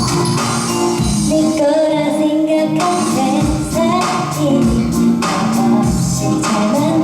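A woman singing over a pop backing track with a steady low drum beat; her voice comes in about a second and a half in.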